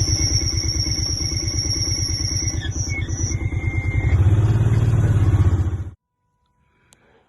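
Side-by-side utility vehicle engine running with a steady whine over it, growing louder about four seconds in. The sound cuts off abruptly about six seconds in, leaving near silence and one faint click.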